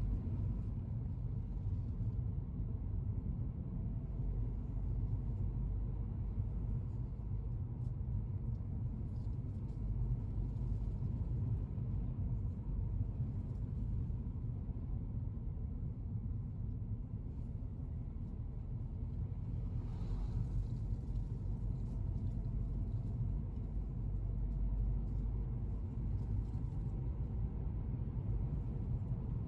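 Steady low road and engine rumble of a moving car, heard from inside. About two-thirds of the way through comes a brief rise in hiss.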